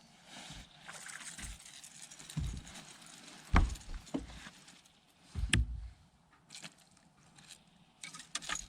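A small largemouth bass being landed: water splashing and irregular low knocks against the boat, the loudest about three and a half and five and a half seconds in, with a few sharp clicks near the end.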